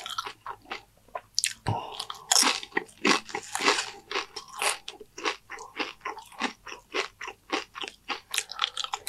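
Close-miked crunching and chewing of Doritos nacho chips loaded with cheese and toppings: a quick, irregular run of crisp crunches.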